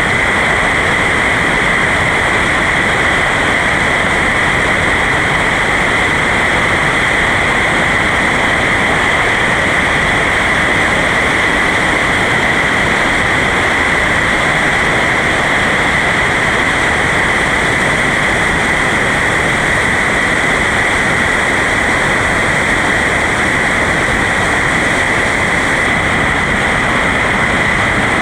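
Steady loud rush of a river running high through rapids, an even noise with no break or change.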